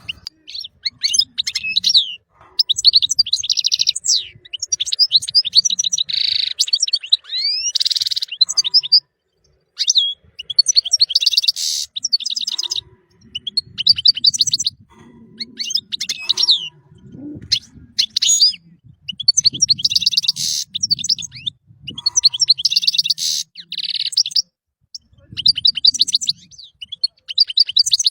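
European goldfinch singing: fast, tinkling twittering phrases of rapid trills and gliding notes, in bursts of a second or two separated by short breaks.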